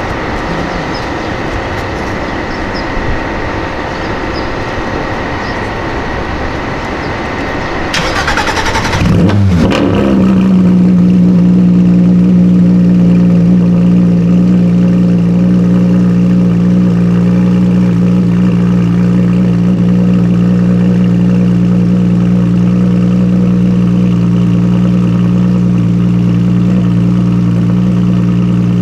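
A car engine is cranked and starts about eight to nine seconds in, flares briefly, then settles into a loud, steady idle.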